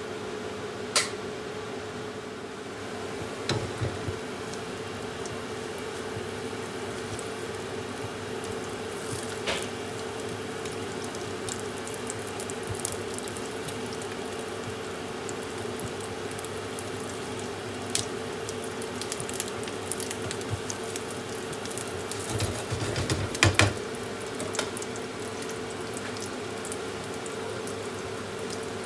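Slices of eggy bread sizzling in a frying pan over a gas burner, with a steady hum underneath. A spatula gives occasional clicks and scrapes against the pan as it turns the slices, with a busy cluster of knocks about three-quarters of the way through.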